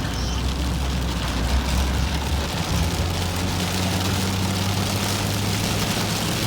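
Inside a car driving in rain: a steady low engine drone under a dense hiss of rain and wet-road noise. The engine note steps up in pitch about two and a half seconds in.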